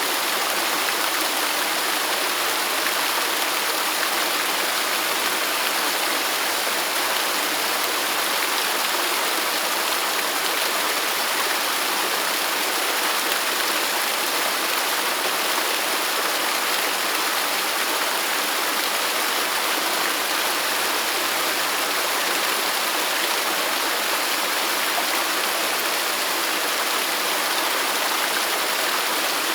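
Waterfall: a steady, unbroken rush of falling water, an even hiss with little low rumble and no change over the whole stretch.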